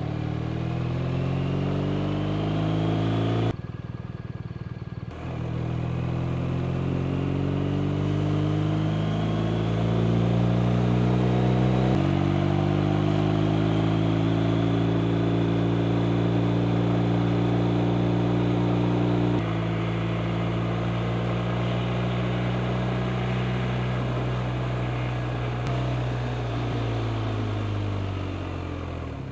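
BMW R 1250 RT's 1254 cc boxer-twin engine under way, pulling up through the revs with rising pitch, dipping briefly at gear changes, holding steady for a while, then slowing with falling pitch near the end.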